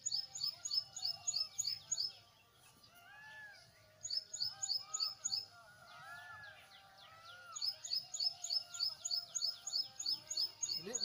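A bird calling a rapid run of high-pitched chirps, about four a second, in three bouts with short pauses between, and softer, lower arched calls in the gaps.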